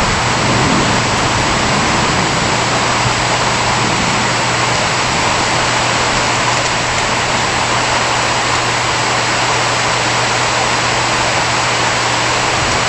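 Steady rain falling, a dense even hiss that is not overly violent, with a faint low hum underneath.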